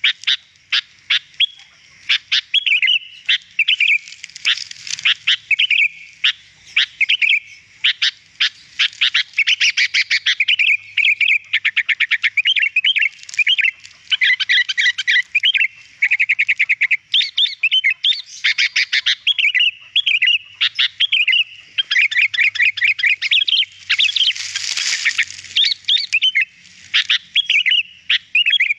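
Sooty-headed bulbul (kutilang) singing almost without pause: rapid chattering notes, fast trills and short whistled phrases. A harsher, rasping stretch comes a little before the end.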